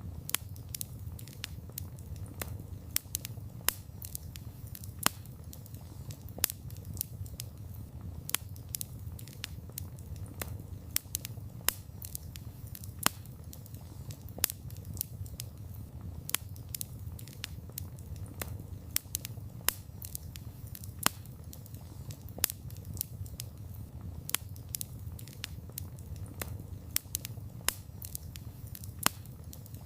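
Wood fire crackling: many irregular sharp snaps and pops from the burning wood, a few louder than the rest, over a low, steady rumble of the flames.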